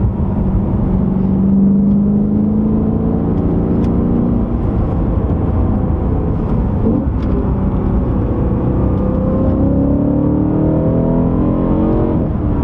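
BMW E92 M3's 4.0-litre V8 pulling under load, its note climbing slowly, dropping about four seconds in, then climbing again and dropping near the end.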